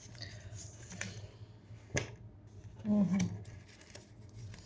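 A single sharp click about two seconds in, then a brief wordless vocal murmur a second later, over faint room tone.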